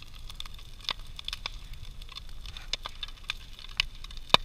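Big bonfire of a brush and wood pile burning, crackling with irregular sharp pops, the loudest one near the end.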